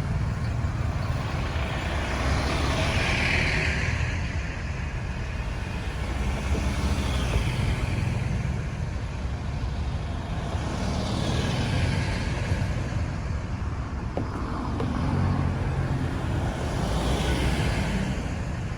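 Busy road traffic: a steady low rumble of engines and tyres, with vehicles swelling past about every four to five seconds.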